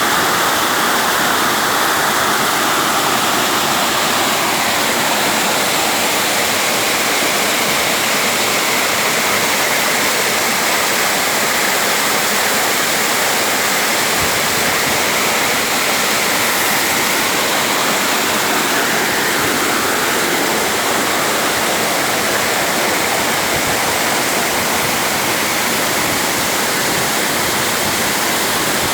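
A waterfall: falling water rushing in a loud, steady roar.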